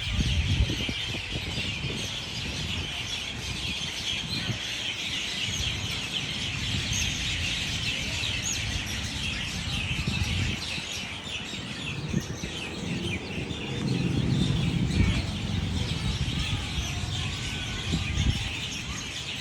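A large flock of birds in the trees chirping all at once, a dense, unbroken chorus of overlapping calls. A low rumble runs underneath and swells about two-thirds of the way through.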